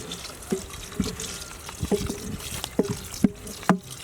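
A large pot of thick chicken haleem being cooked and worked: irregular wet plops and knocks, roughly one or two a second.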